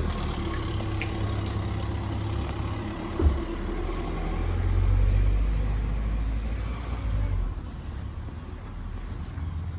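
Cars driving past on a town street, engines and tyres making a steady low rumble, with a short thump about three seconds in; the traffic noise thins out near the end.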